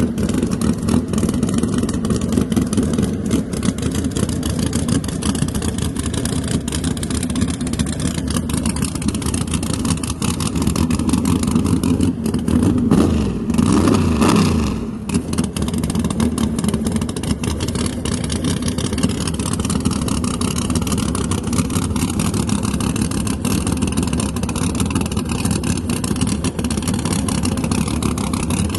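Drag car engine running with a steady, loud rumble, surging louder with a quick rise and fall in pitch about 13 to 15 seconds in.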